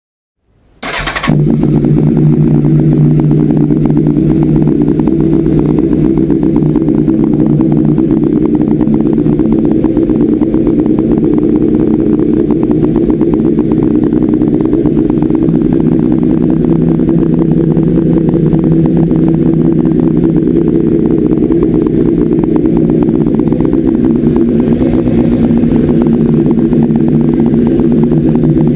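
Honda CBR929RR's inline-four engine running at a steady speed through a Dominator GP1 aftermarket silencer. It cuts in suddenly about a second in and holds a loud, even note with no revving.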